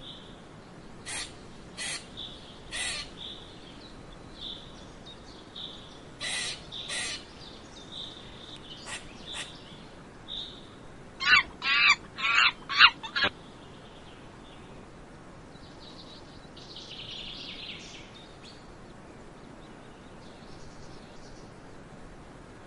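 Monkey calls: a quick run of about six loud, harsh, wavering calls, coming after a scatter of short sharp chirps, then only faint outdoor background.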